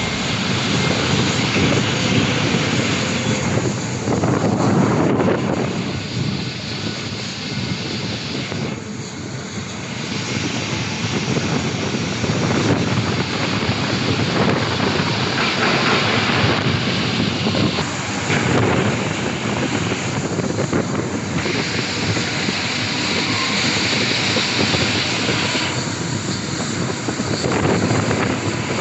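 Aircraft engine noise from a passing airplane: a continuous rushing sound that swells and dips in level without settling on a tone.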